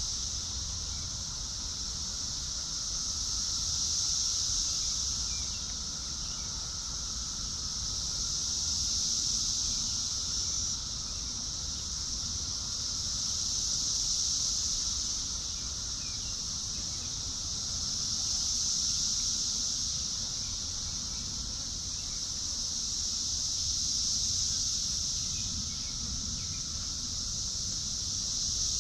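Insect chorus: a steady, high-pitched drone that swells and fades in slow waves about every five seconds.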